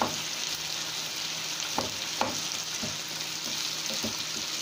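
Diced potatoes sizzling steadily in oil in a frying pan while a wooden spatula stirs them, with a few sharp taps of the spatula against the pan.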